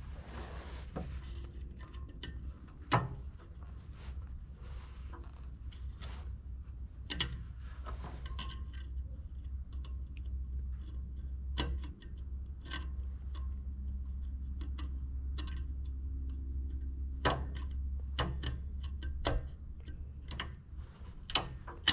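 Scattered small clicks and taps of hands twisting and prying at a tractor headlight's bulb and socket, over a steady low rumble.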